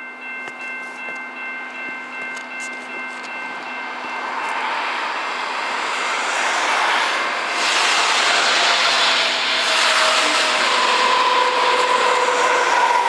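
Canadian Pacific coal train led by three GE diesel locomotives approaching, the sound of engines and wheels on the rails growing steadily louder.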